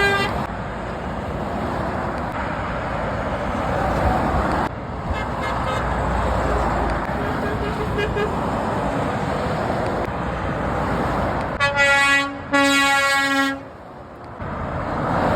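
Steady motorway traffic, with a passing truck sounding its horn in two blasts, a short one and then a longer one, about twelve seconds in.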